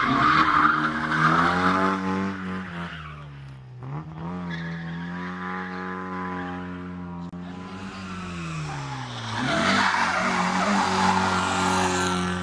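Historic rally car engine at full revs: the pitch drops and climbs back up, holds steady for a few seconds, then dips and climbs again near the end, with a harsh noisy edge at the loudest moments.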